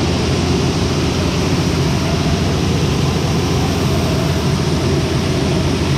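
A large diesel engine on farm machinery running steadily under load, a deep, even drone with no change in pace.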